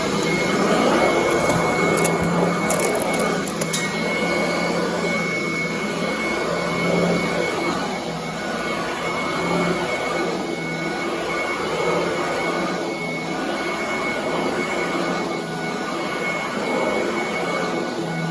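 Commercial upright vacuum cleaner running steadily on carpet, its motor holding a steady high whine over the rush of suction.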